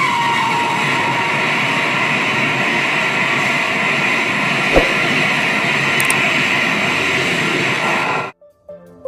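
Shatabdi Express passenger train running through a station at high speed: a steady rush of wheel and coach noise as the coaches pass. A horn note dies away, falling in pitch, right at the start, and there is a single knock about five seconds in. The sound cuts off suddenly about eight seconds in.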